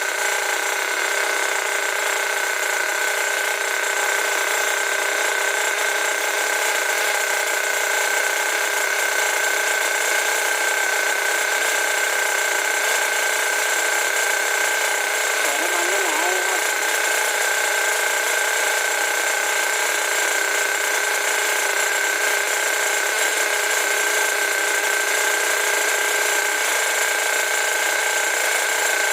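Freshly rebuilt Force .32 two-stroke nitro engine running steadily at high speed on a test run: a steady high-pitched whine, with a brief slight waver in pitch about sixteen seconds in.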